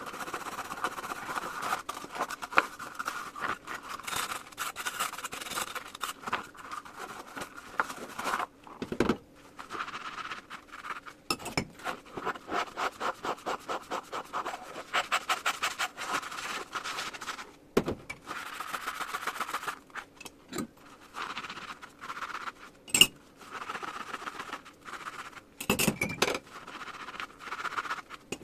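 Dishes being scrubbed by hand with a sponge in rubber gloves: quick, rhythmic scrubbing strokes in runs, with a few sharp clinks and knocks of dishware.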